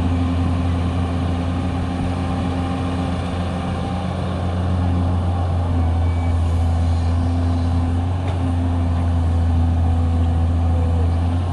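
Heavy diesel engine of construction machinery running steadily with a low drone, its tone shifting slightly about halfway through.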